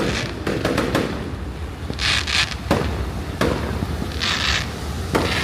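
New Year's fireworks going off: a run of sharp bangs, with crackling bursts about two seconds in and again just after four seconds.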